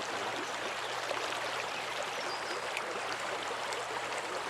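Creek water flowing steadily, an even rushing, babbling wash.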